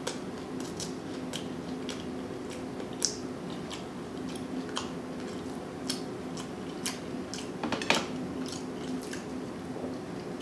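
Close-miked chewing of fast food: irregular wet mouth clicks, smacks and crunches, with louder smacks about three and eight seconds in, over a faint steady hum.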